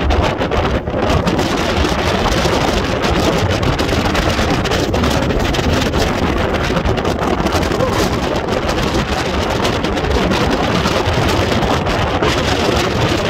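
Strong wind blasting across the microphone, a loud, steady rumble that doesn't let up.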